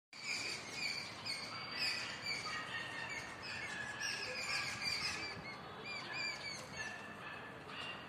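Small birds chirping and twittering together: many short, high chirps overlapping several times a second.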